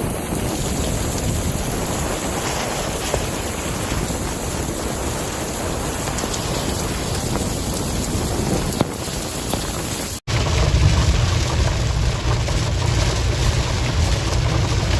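Heavy rain and wind noise in a severe storm, a steady hiss. About ten seconds in it cuts off abruptly and gives way to a louder, deeper rumble.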